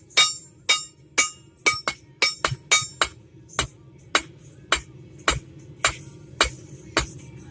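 Blacksmith's hammer striking a railroad spike on an anvil, about two blows a second, drawing out the steel. Each blow rings metallically; the first few ring brightest, the later ones sound duller, with a quick run of blows near the middle.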